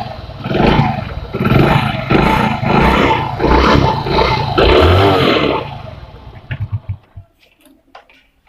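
Motorcycle engine revved in repeated quick blips through a homemade add-on exhaust silencer, about one surge per second, being tested for its sound. About six seconds in the revving stops and the engine slows in a few fading pulses and shuts off.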